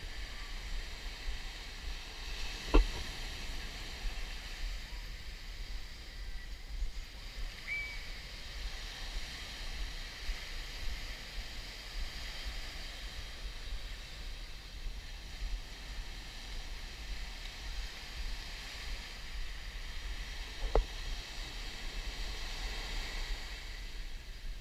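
Steady wash of surf on a beach, with wind buffeting the microphone, and two sharp knocks: one a few seconds in and one near the end.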